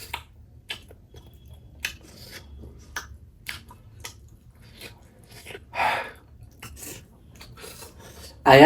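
Close-miked chewing and eating: scattered wet mouth clicks and smacks, with a brief louder breathy sound about six seconds in.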